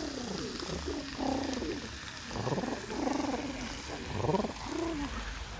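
Pigeons cooing close by, a string of low, bending coos one after another.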